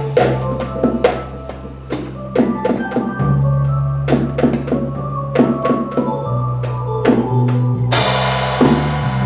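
Live jazz drum kit played busily, with snare, rimshot and bass drum strokes over long held low organ bass notes that step to new pitches every few seconds, and a cymbal crash about eight seconds in.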